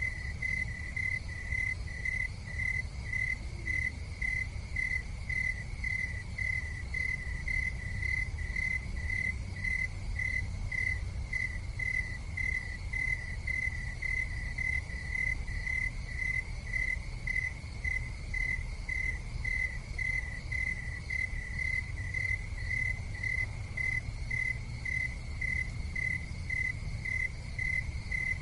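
A cricket chirping steadily, about two chirps a second, over a low steady rumble.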